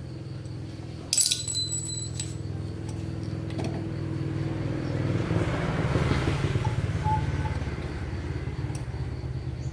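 Metal clinking and jangling for about a second, like small metal parts or tools being handled, over a steady low mechanical hum that swells and fades in the middle.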